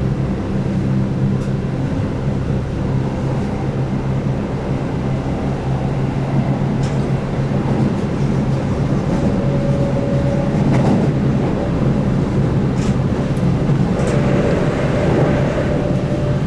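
Keihan 8000-series electric train running, heard from inside the car: a steady low hum and rail rumble, with a thin whine from the DC traction motors coming in about nine seconds in and again near the end.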